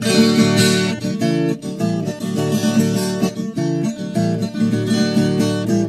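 Instrumental music: acoustic guitar strummed and picked, with no singing.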